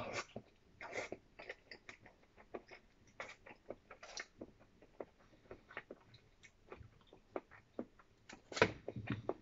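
Close-up mouth sounds of a man eating sticky natto with chopsticks: wet chewing and lip-smacking with scattered small clicks, and a louder burst about a second before the end.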